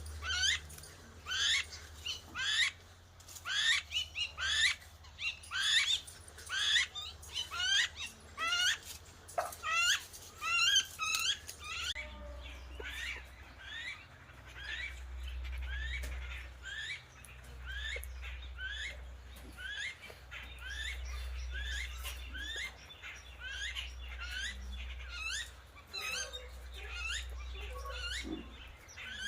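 Birds chirping over and over, short rising chirps about one or two a second. The chirps are louder in the first half and softer in the second, over a low rumble.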